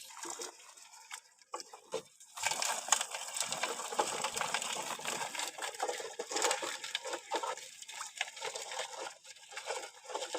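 Busy splashing and rustling with many small taps and crackles, starting about two seconds in, as wet fish and netting are handled at the water.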